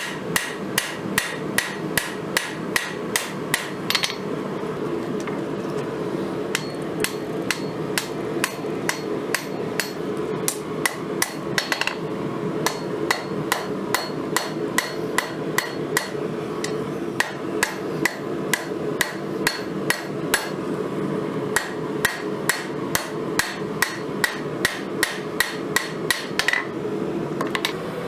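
Forging hammer blows on spring steel against an anvil, about three a second with brief pauses, each blow ringing. A steady hum runs underneath.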